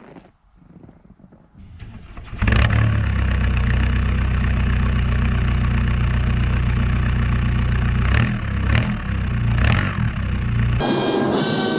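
Cold start of a straight-piped Volkswagen Mark III 1.9 TDI diesel with the catalytic converter cut off: the engine catches suddenly about two seconds in and settles into a loud, raw idle. The revs rise briefly about three times before the engine sound cuts off abruptly near the end.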